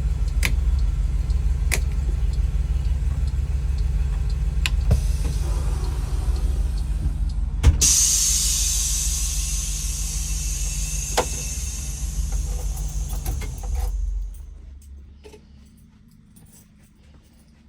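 A Blue Bird Vision school bus engine idling with a low, pulsing rumble and a few sharp clicks. About eight seconds in, a loud click sets off a long hiss of released air that slowly fades. The engine then shuts off, leaving only faint clicks near the end.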